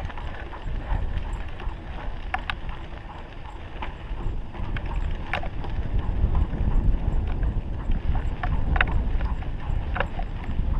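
Low rumble and scattered short clicks of a dog-pulled rig rolling fast over a dirt trail.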